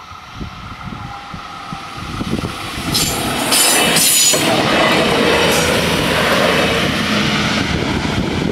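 Alstom Coradia LINT 54 diesel multiple unit passing over a level crossing. It grows loud about three seconds in as it reaches the crossing, with several sharp wheel clicks over the rail joints, and keeps up a rushing run of engine and wheel noise as it goes by.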